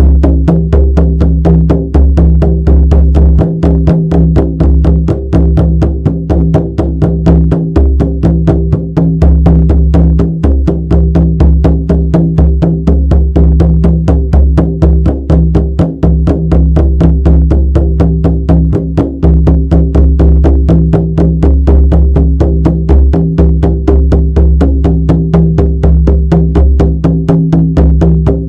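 Shamanic frame drum beaten in a fast, even, unbroken rhythm, each stroke leaving a deep, droning boom.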